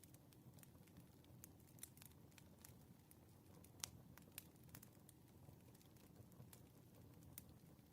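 Faint crackling of a wood fire: irregular sharp pops over a low steady rumble, with one louder pop about halfway through.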